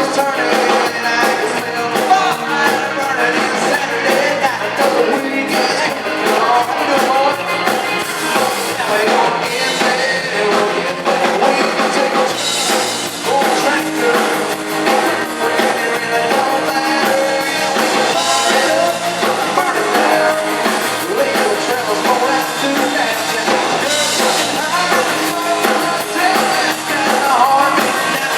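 Live country band performance with a male lead vocal singing over guitar and drums.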